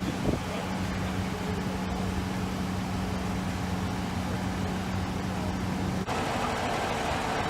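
A steady, even hum over street noise, cut off suddenly about six seconds in, where a louder, hissier background takes over.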